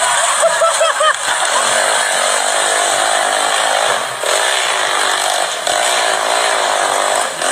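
Motocross bike engines revving hard. The pitch rises and falls in quick sweeps over the first second or so as the throttle is worked, then settles into a dense, steady high-revving drone of overlapping engines.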